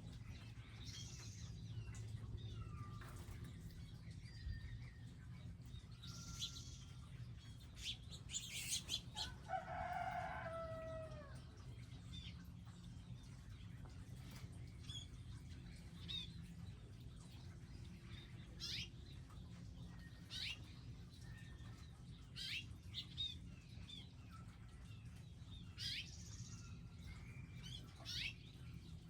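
Wild birds at garden feeders: scattered short chirps and calls, with one louder call that falls in pitch about nine to ten seconds in, over a steady low background hum.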